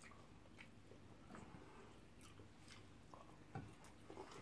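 Faint chewing and soft eating sounds, with scattered small clicks and one slightly louder tap about three and a half seconds in; otherwise near silence.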